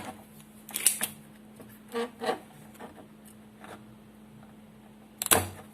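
Spring-loaded desoldering pump being handled and worked: scattered light clicks, then a loud sharp snap a little over five seconds in as the plunger is released to suck up molten solder. A faint steady hum lies underneath.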